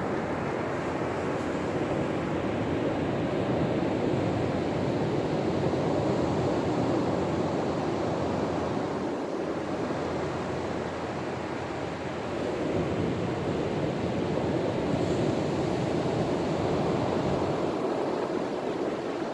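Ocean surf, waves breaking and washing in, a steady rushing that swells and eases over several seconds, with some wind on the microphone.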